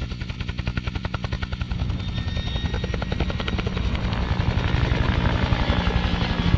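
Helicopter rotor chopping in a fast, even beat over a low engine hum, growing slightly louder toward the end.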